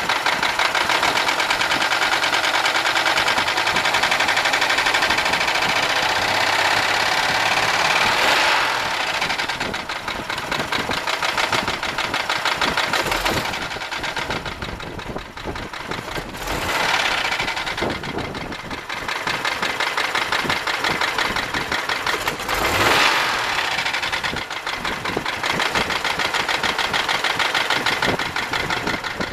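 1995 Buick LeSabre's 3.8-litre V6 running with a rapid, steady knock, which the owner suspects is in the valvetrain. The sound swells louder briefly a few times.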